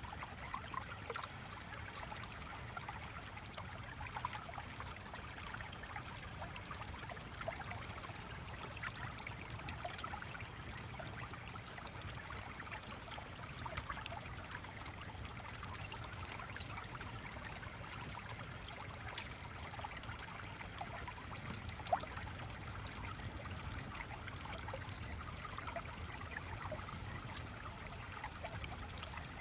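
Steady ambience of a flowing stream, water trickling continuously, with many small scattered ticks through it and one sharper click about two-thirds of the way in.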